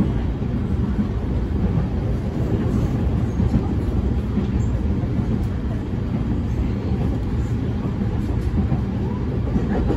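Running noise inside a JR East E231-1000 series commuter train under way, a steady low rumble of the car on the rails heard from a passenger seat.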